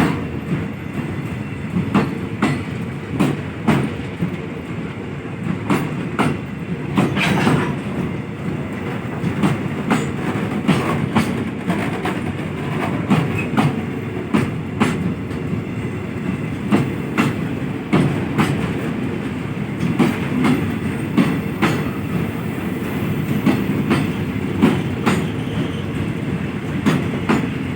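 Freight train running along the track: a steady low rumble with irregular sharp clacks of wheels over rail joints.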